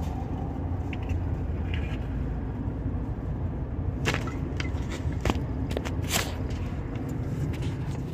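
Car cabin road noise while driving, a steady low rumble, with a handful of short sharp clicks and crackles about halfway through.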